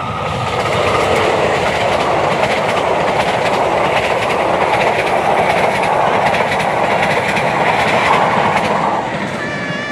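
Passenger train passing close by, its wheels clattering over the rail joints under a loud rushing rumble that eases off about nine seconds in.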